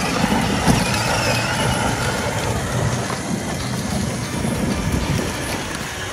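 Battery-powered ride-on toy monster truck (Power Wheels) driving, its plastic wheels rumbling over rough ground with a faint steady motor whine.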